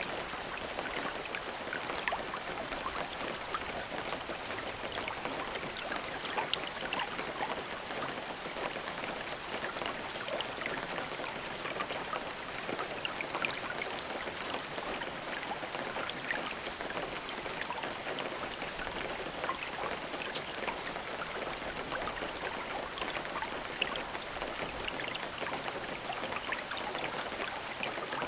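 Steady rain: an even hiss with many individual drops heard as small sharp ticks, with no thunder.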